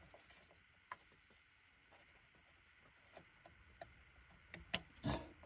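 Scattered faint clicks and ticks of parts and tools being handled in an engine bay, with a heavier knock and short rustle near the end.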